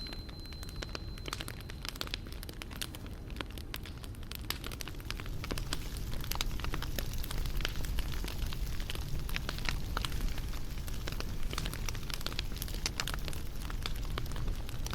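Wood fire crackling, with many scattered sharp pops over a low steady rumble. A single high ringing tone fades out within the first couple of seconds.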